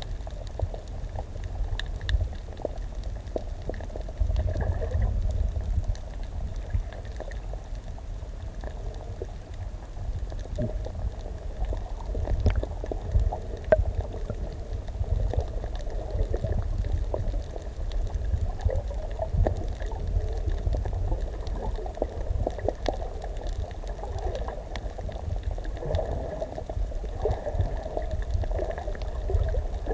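Water bubbling and gurgling over a steady low rumble, as heard by a camera underwater.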